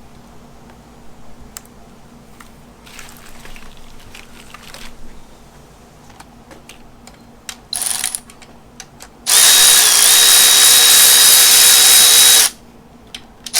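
Cordless power drill running flat out for about three seconds, driving a 10 mm bolt on an LS V8 engine, with a steady high whine. Before it come several seconds of faint clicks and rattles of parts being handled and a brief buzz. The drill starts again right at the end.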